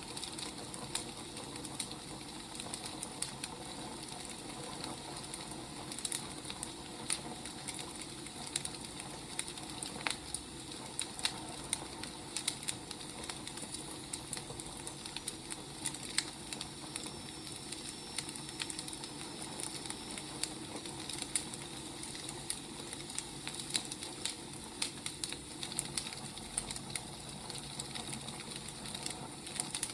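Wood fire crackling steadily, with irregular sharp pops and snaps over a soft hiss.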